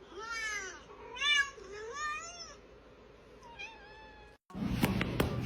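Domestic cat meowing four times in a row, each call rising and falling in pitch, the last one fainter. Near the end the sound cuts out, and a steady hum with clicks starts.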